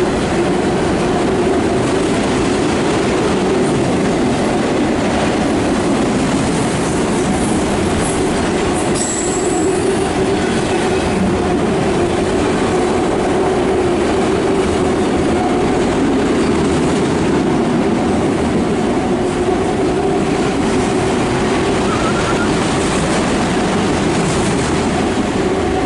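Empty autorack freight cars rolling past on the rails, a steady loud rumble and clatter of wheels on track, with a brief high wheel squeal about nine seconds in.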